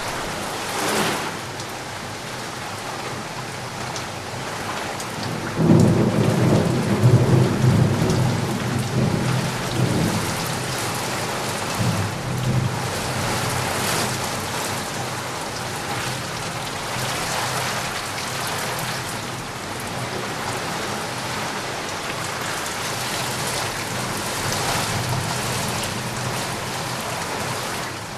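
Steady rain falling, with a roll of thunder that rumbles in about six seconds in and dies away over several seconds.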